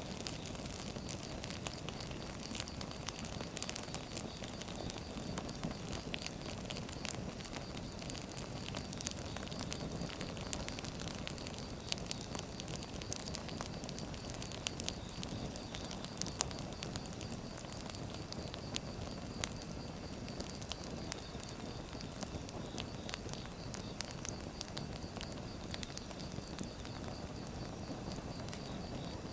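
Firewood burning, with frequent sharp crackles and pops over a steady low rushing hiss.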